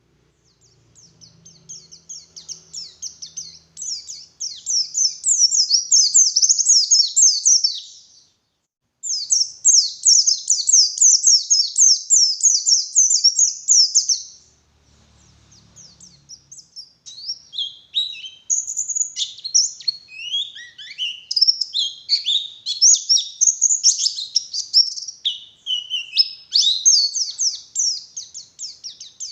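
White-eye (pleci) singing a long, high-pitched, rapid twittering song in runs, with short breaks about a third and halfway through; the later phrases are more varied and dip lower in pitch.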